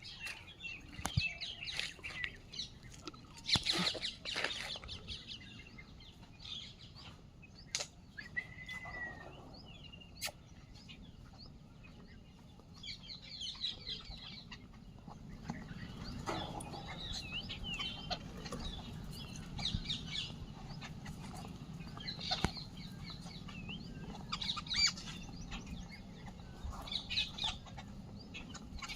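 Birds calling and chirping again and again, with scattered sharp clicks; a low steady hum sets in about halfway through.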